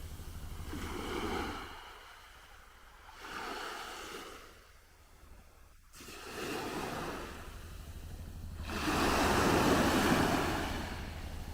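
Sea waves washing onto the shore, a noisy wash that swells and fades about four times. The biggest surge comes near the end.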